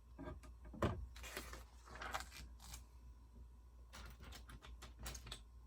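Lego bricks being handled: scattered small plastic clicks and a brief rustle as pieces are picked up and sorted, with a cluster of clicks about four seconds in.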